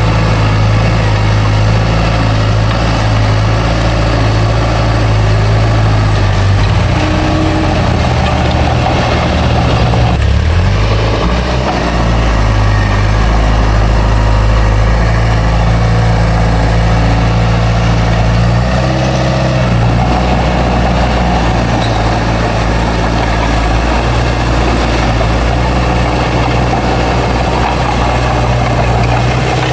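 Bulldozer's diesel engine running steadily, its note shifting as the load changes about a quarter of the way in and again around two-thirds of the way through.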